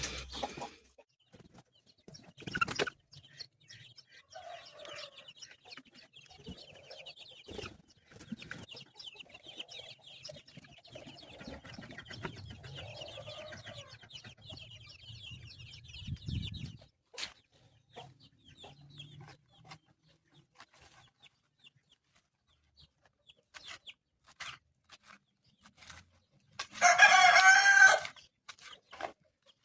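Chickens clucking quietly with faint high peeping of chicks, then a rooster crowing loudly once near the end.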